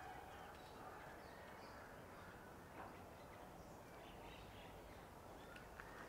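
Near silence, with faint bird calls scattered through and a couple of soft clicks, one about halfway and one near the end.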